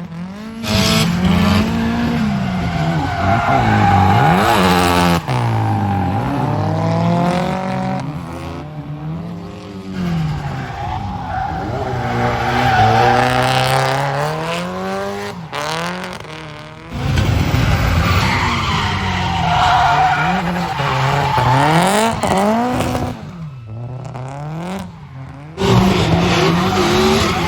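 Drift cars' engines revving hard up and down with tyre squeal as they slide, the engine pitch rising and falling again and again. The sound changes abruptly a few times.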